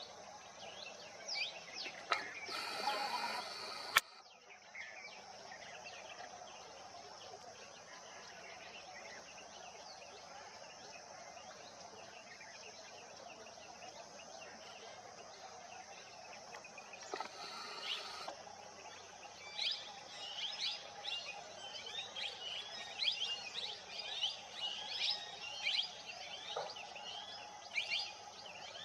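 Wild birds chirping and calling over a steady outdoor background hum. A louder, harsh call comes about two seconds in, and rapid high chirps grow dense in the last third.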